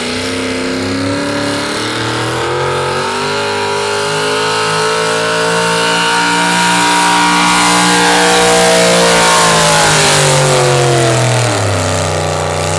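Chevy big-block V8 in a modified pulling truck run at full throttle while dragging the sled down the track. The engine note climbs slowly and grows louder, then the revs fall away over the last couple of seconds as the pull ends.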